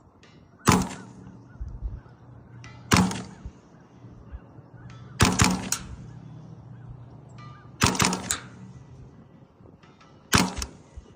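Ruger 10/22 with an integrally suppressed barrel firing standard-velocity .22 LR, five suppressed shots about two and a half seconds apart. Each is a short, sharp crack, with a little rattle just after some of them.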